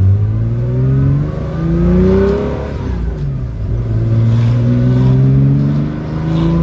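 Air-cooled Porsche 911 3.0-litre flat-six with individual throttle bodies pulling hard through the gears. The engine note climbs for about two seconds, drops at a gearshift, then climbs again and drops near the end, heard from inside the car with the window down.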